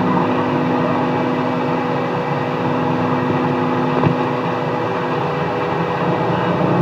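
CB radio receiver hissing with loud skip static on an open channel, steady whistling tones running through it, and a single sharp click about four seconds in.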